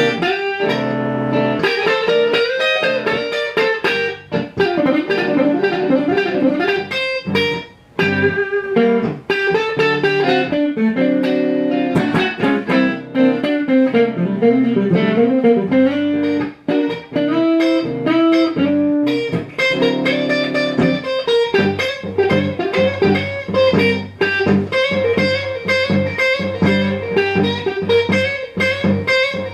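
Guitar playing blues, single picked notes with some bent up and down in pitch, over a steady low bass line.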